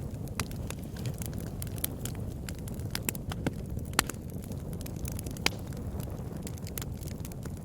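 Wood fire burning in a fireplace: a steady low rumble of flames with irregular crackles and pops, a few sharper pops standing out.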